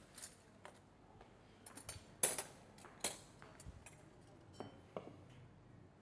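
Tableware being set out on a table: a series of light clinks and knocks of glass, china and cutlery, the loudest a ringing clink a little over two seconds in.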